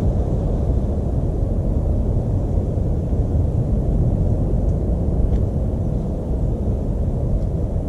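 Steady low rumbling noise with no clear rhythm or pitch, and a faint high tick or chirp about five seconds in.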